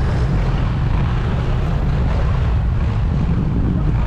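Steady wind rumble on the microphone of a moving scooter, over the scooter's engine and road noise.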